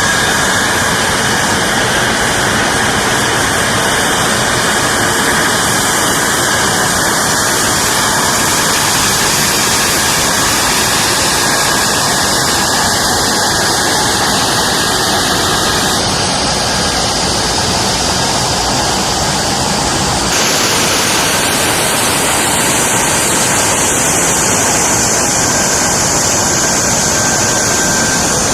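F-35B fighter jet engine running loud: a steady rushing noise with a thin high whine over it. The sound changes abruptly twice past the middle, and in the last third a high whine slowly falls in pitch.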